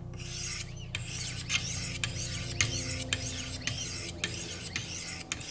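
Wicked Edge sharpening stones at 1000 grit stroked along the edge of an S90V steel knife blade. A dry scraping rasp repeats about twice a second over a faint steady hum.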